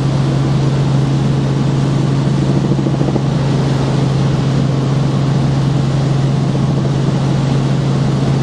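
Helicopter in flight, heard from inside the cabin: a steady engine and rotor drone with a strong low hum under it.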